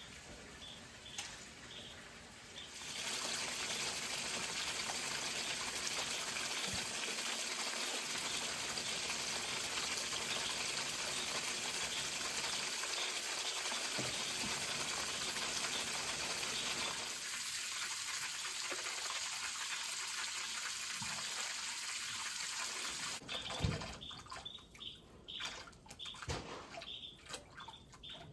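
Garden hose running into a large water trough: a steady splashing hiss that starts about three seconds in and cuts off suddenly some five seconds before the end, as the rising water reaches the hose end and covers it, the sign that the trough has filled to the set level. A single knock follows just after the water stops.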